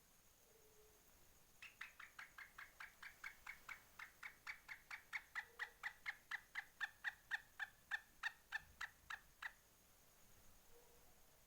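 A game bird's call: a rapid, even series of about thirty-odd sharp, clicking notes, about four a second, growing louder over some eight seconds and then stopping.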